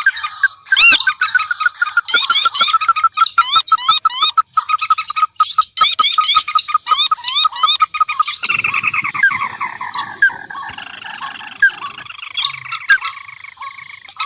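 Bird-lure recording of marsh birds, rails and crakes such as waterhens, calling in a dense chorus of fast repeated, upward-hooked notes. About two-thirds of the way through it changes to overlapping falling call series over a rough low buzz, which fades near the end.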